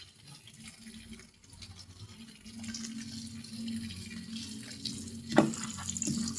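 Water running and splashing, as from a tap into a sink, picking up a little over two seconds in, with one sharp knock about five seconds in.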